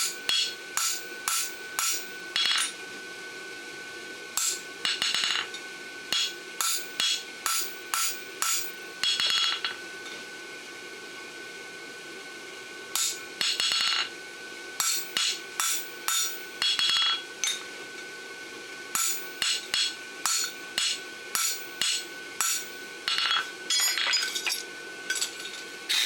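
Hand hammer striking a punch into a hot steel horseshoe on an anvil, punching nail holes, in runs of quick blows with some ringing strikes. There is a pause of a few seconds near the middle.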